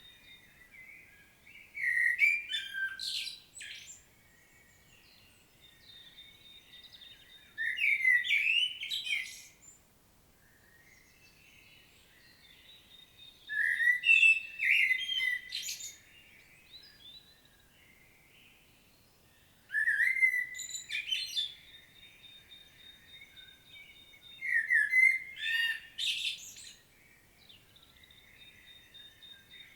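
Common blackbird singing: five separate phrases, one about every six seconds, each a short fluting warble that breaks into a high, scratchy twitter at its end.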